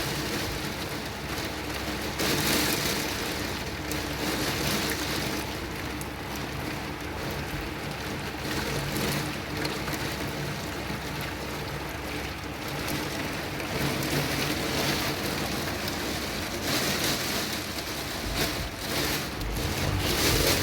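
Heavy rain pouring down and beating against a window pane, a dense steady hiss that swells and eases now and then.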